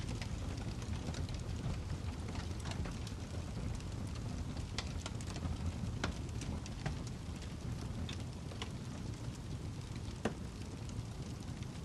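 Wood fire burning in a fireplace: a steady low rumble of flames with scattered sharp crackles and pops from the burning log, one of the sharpest about ten seconds in.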